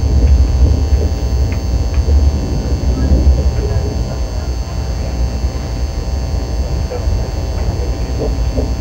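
Steady low rumble of a KTX train running along the track, heard inside the passenger cabin, a little louder in the first few seconds.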